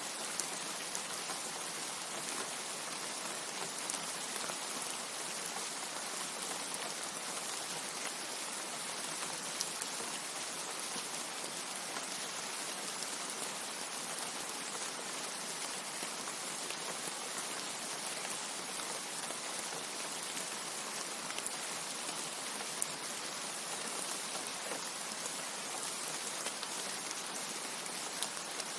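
Steady rain, an even hiss with scattered single drops ticking through it.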